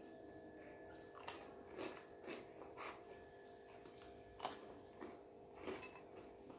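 A person chewing food close to the microphone: quiet, irregular mouth clicks and smacks, roughly one a second.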